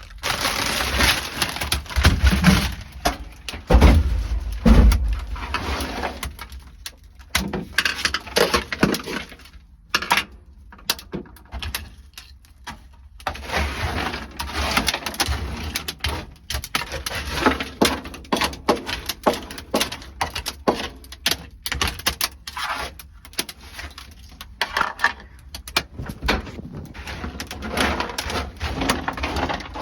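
Dry-ice-frozen sound-deadening mat being broken off a car's metal floor, with many irregular sharp cracks and knocks and stretches of scraping, rattling noise between them.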